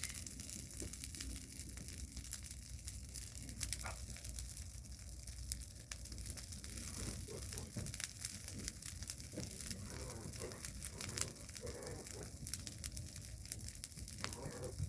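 Large bonfire of thorny brush burning, with a steady stream of irregular crackles and pops over a low rush of noise.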